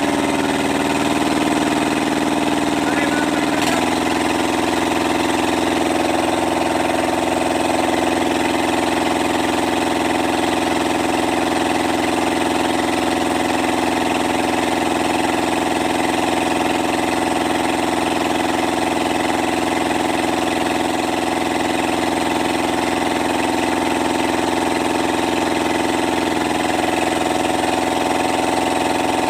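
Kubota Z751 two-cylinder diesel engine running steadily at idle, its note shifting slightly about four seconds in.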